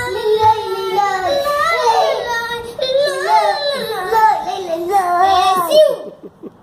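A child singing a Hebrew song about God, with long held, wavering notes; the singing stops about six seconds in.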